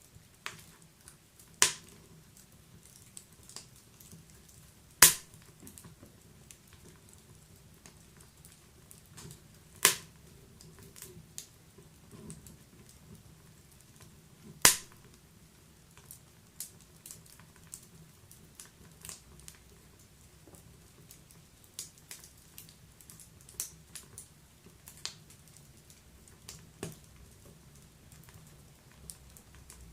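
Wood fire in a fireplace crackling, with sharp pops scattered irregularly over a faint steady hiss. Four loud pops fall in the first half, and smaller crackles follow.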